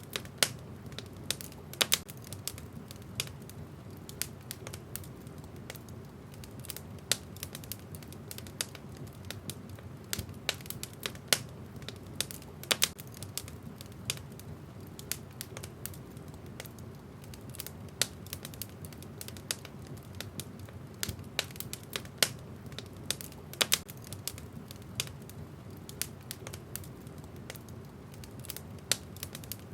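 Wood fire burning in a fireplace, the logs crackling with irregular sharp pops over a low steady rumble of the flames.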